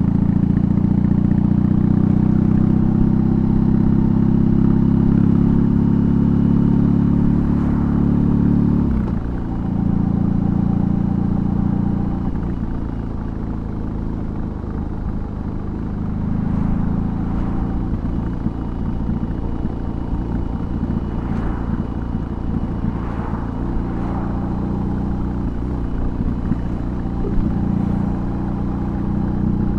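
BMW R18's big boxer twin engine running through a custom exhaust on the move. It pulls loud for the first nine seconds, drops off briefly about nine seconds in, then settles into a lower, steadier run.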